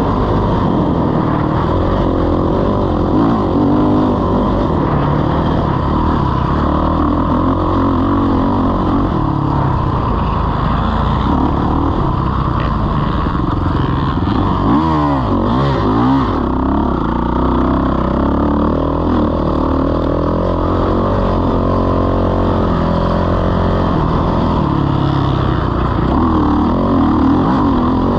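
Motocross bike engine running hard, its pitch rising and falling as it accelerates and backs off. Around the middle comes a quick run of rapid up-and-down revs.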